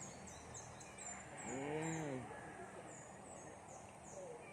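A short hum of approval, a person's closed-mouth 'mmm' that rises and falls once, about halfway through. Faint high chirps repeat several times a second behind it.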